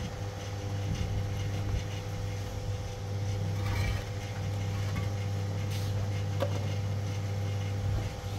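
Steady low mechanical hum from a running motor, holding one pitch, with a few faint clicks over it.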